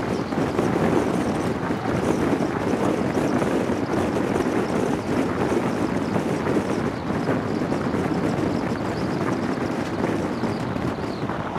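Steady rush of wind buffeting a microphone held out of the window of an InterCity 125 (HST) train running at speed, mixed with the train's rolling noise on the rails.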